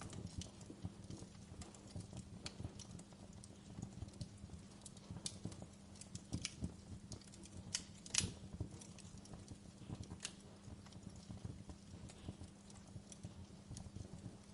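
Wood fire in a fireplace crackling, with irregular sharp pops and snaps over a steady low rumble; one louder crack about eight seconds in.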